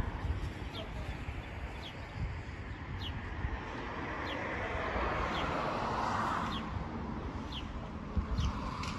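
Small birds chirping, a short falling high note repeated about once a second, over a low steady rumble. A broad rushing noise swells and fades about five seconds in.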